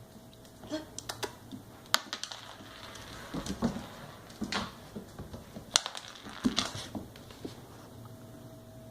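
A puppy playing with an ice cube: irregular clicks and clatters of the ice knocking on a hard floor, coming in scattered clusters.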